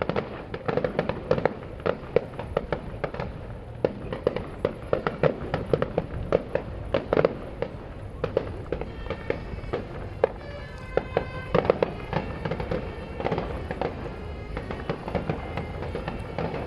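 Fireworks display: a rapid, irregular string of bangs from bursting shells, several a second throughout.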